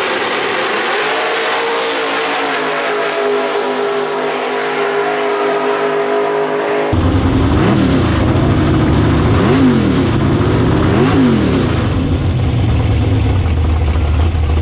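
Drag-race car engines running at the starting line, one rising in revs about two seconds in. After about seven seconds, one engine heard up close has its throttle blipped three times, each rev climbing and dropping back, then it settles to a steady idle.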